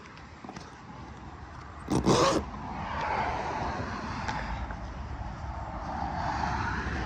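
Road traffic going by: tyre and engine noise that swells and fades over several seconds, after a short thump about two seconds in.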